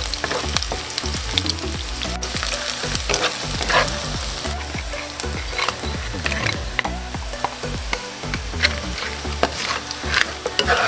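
Sliced onion, garlic and cooked crabs sizzling in hot oil in a wok as they are stir-fried, with many short clicks and scrapes of the utensil and shells against the pan.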